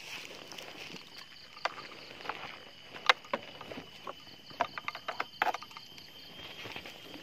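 Irregular clicks and snaps, the loudest about three and five and a half seconds in, over a steady high-pitched drone of forest insects.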